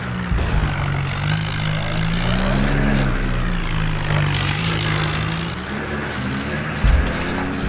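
Mini tractor's motor running steadily, its pitch rising and falling slightly as the load changes, with a couple of low thumps.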